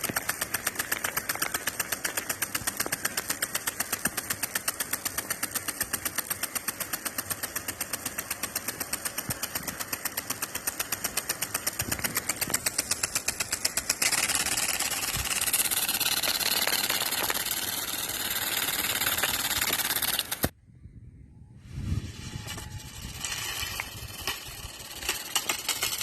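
Rain gun sprinkler spraying water, its impact arm striking the jet in a rapid, even ticking for about fourteen seconds before a steady spray hiss takes over. The sound cuts off abruptly about twenty seconds in and returns more quietly.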